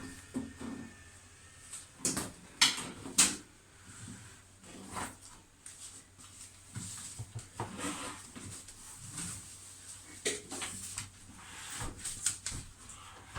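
Scattered knocks, clicks and light clatter of things being handled and moved, with two loud sharp knocks close together about three seconds in.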